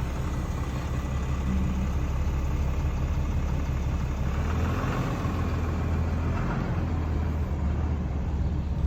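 2022 Ram 2500 pickup running with a steady low drone, recorded for a weird noise that the owner cannot place.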